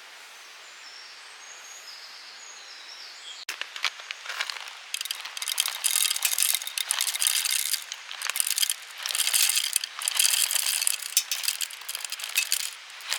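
Birds chirping faintly over a quiet outdoor background. Then, from about four seconds in, repeated gritty crunching bursts with small clicks, as of coffee beans being ground in a hand coffee mill.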